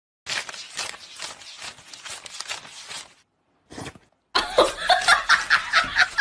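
Paper banknotes being flicked and counted by hand, a quick run of crisp rustling clicks. About four seconds in, a person breaks into rhythmic laughter, several short bursts a second.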